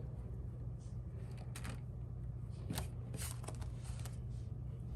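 Paper being handled: scattered light rustles of savings-challenge sheets and cash, over a steady low hum.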